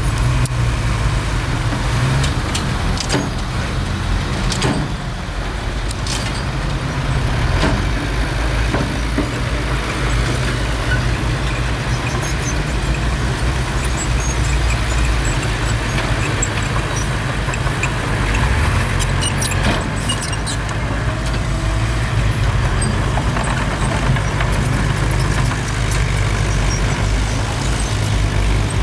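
Heavy diesel engine of a bulldozer running steadily at work, a deep low hum, with a few sharp metallic clanks now and then.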